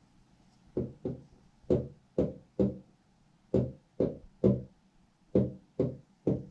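Noise from the flat above: a run of eleven sharp bangs, each with a short pitched ring, in groups of five, three and three at about two a second.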